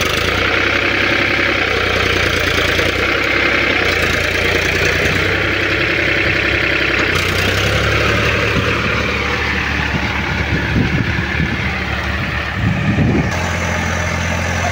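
Powertrac Euro 50 tractor's diesel engine running just after being started, its note easing down about eight seconds in.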